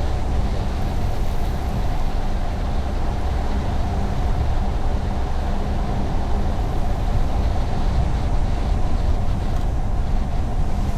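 Car travelling at road speed: a steady low rumble of engine and tyre noise on the road surface.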